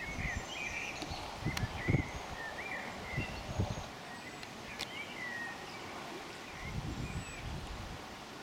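Small birds chirping and singing in short swooping notes, over a steady outdoor background hiss, with irregular low rumbles of wind on the microphone.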